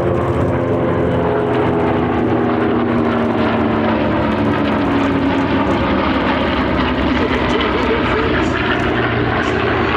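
Propeller aircraft's piston engine droning in flight, its pitch drifting slowly lower over the first few seconds as it passes.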